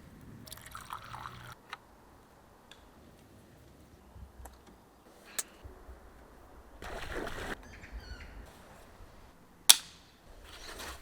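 Handling noises: brief rustles and scattered light clicks, then one sharp, loud click with a short ring near the end.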